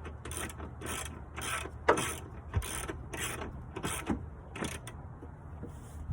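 Hand ratchet wrench being cranked in repeated back-and-forth strokes, a burst of ratchet clicks about twice a second, stopping near the end.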